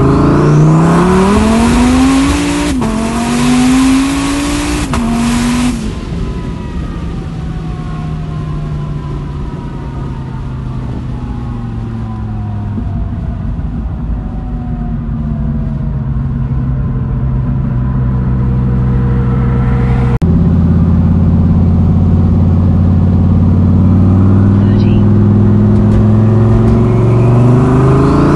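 Twin-turbo Dodge Viper ACR V10 heard from inside the cabin at full throttle, its note climbing with two sudden drops at upshifts. Then it lifts off and the note falls and quietens while coasting. About two-thirds through, the drone steps up suddenly and holds steady and loud, and near the end the note begins climbing again as the throttle opens.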